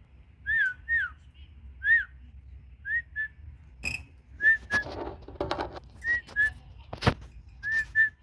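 A series of short, high whistled notes, each rising and falling quickly, coming singly and in quick pairs about a dozen times. Several sharp clicks or knocks are mixed in, the loudest about seven seconds in, along with a brief rustle.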